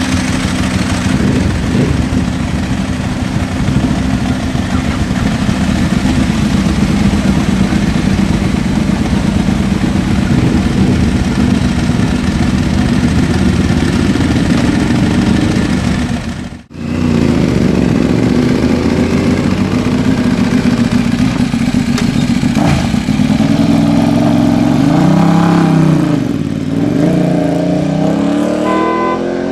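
Motorcycle engines running loud and steady, then after a sudden break about 17 seconds in, revving with the pitch rising and falling as bikes ride past. A short steady tone starts near the end.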